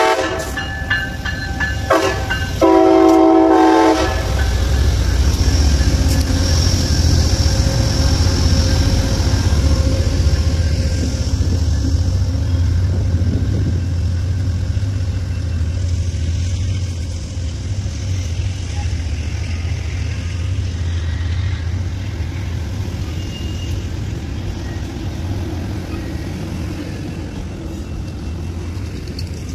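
Amtrak Siemens ALC-42 Charger diesel locomotive sounding its horn at a grade crossing: a few short sounds, then a longer blast that cuts off about four seconds in. The locomotive and its Superliner cars then rumble steadily past, slowly fading.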